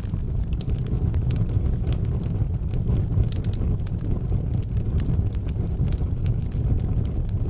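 Outdoor wood fire burning with a steady low rumble of flames and frequent small crackles and pops of burning wood.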